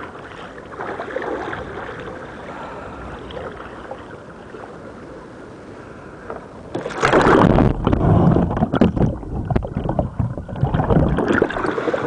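Water lapping and paddle sounds around a sea kayak. About seven seconds in comes a sudden loud splash and churning rush of water for about four seconds as the kayak capsizes and is rolled back upright.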